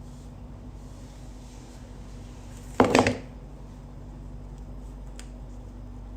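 A brief loud clatter of a few quick knocks about three seconds in, over a steady low electrical hum.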